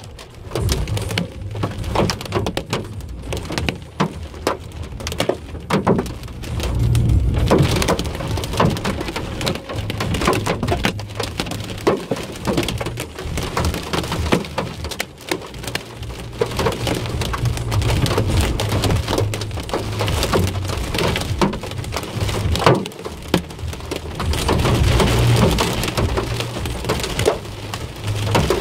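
Hail and heavy rain drumming on a car's roof and windscreen, heard from inside the car: a dense, loud stream of sharp ticks over a steady low hum from the car.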